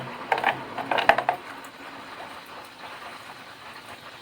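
A few quick clicks and knocks of kitchen utensils against dishes in the first second or so, as sauce is scooped and measured. After that there is only a low, steady background.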